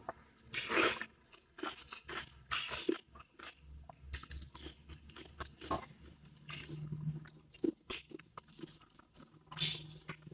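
A person eating close to the microphone: irregular crunches and chewing, a string of short, sharp bites spread unevenly through the mouthful.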